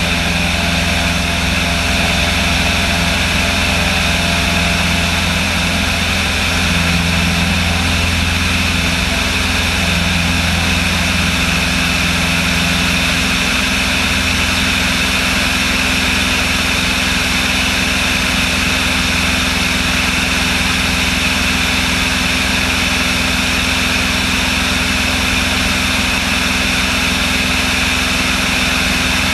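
Small propeller aircraft's engine running with a steady drone. Its lower tones shift slightly about ten seconds in, then it holds steady again.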